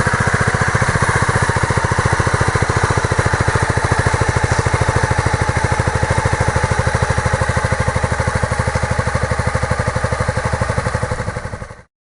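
Honda CBR250 motorcycle engine idling steadily with an even pulsing beat, just after starting. It cuts off suddenly near the end.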